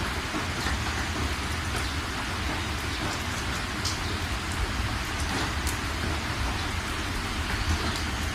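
Steady rain falling, an even hiss with individual drops ticking now and then, over a steady low rumble.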